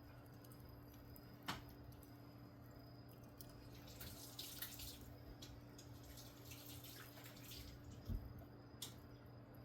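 Faint crackling of a wood fire burning to light charcoal, with a few sharp single pops and a steady low hum underneath.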